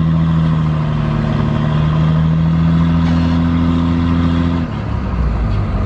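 Vehicle engine running at a steady speed with a constant drone. About four and a half seconds in, the pitch drops lower, as the engine eases off.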